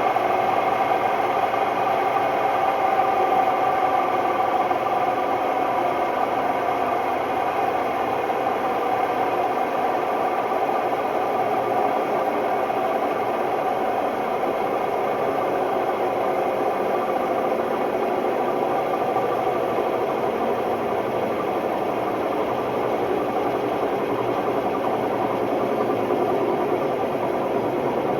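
Hotpoint Ultima WMD960 washing machine drum spinning with a loud, steady roar and whine from worn drum bearings.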